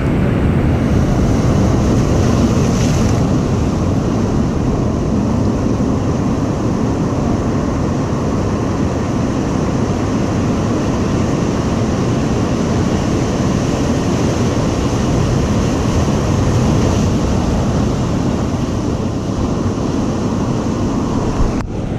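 Ocean surf crashing and washing in at high tide, a steady continuous rush with wind buffeting the microphone.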